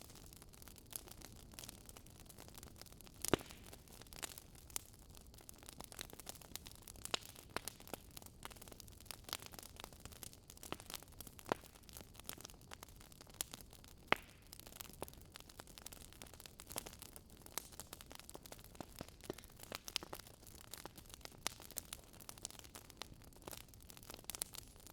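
Wood fire crackling faintly, with irregular sharp pops over a low hiss; two louder pops about three seconds in and about fourteen seconds in.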